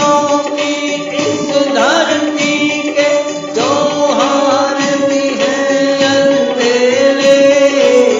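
Hindi patriotic song: a sung melody with long held notes and sliding phrases over instrumental accompaniment.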